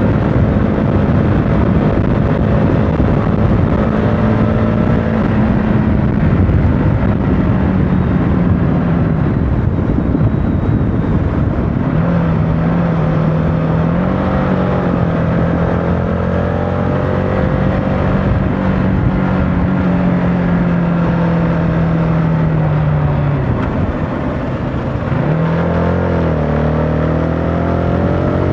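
CFMOTO motorcycle engine running while riding, over steady wind and road noise. The engine's pitch holds fairly steady, drops briefly after about three-quarters of the way, then climbs again as it accelerates near the end.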